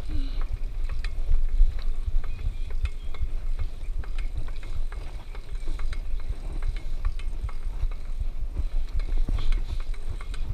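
Low rumble of wind and handling noise on the microphone, with irregular light clicks and ticks from a child's bicycle.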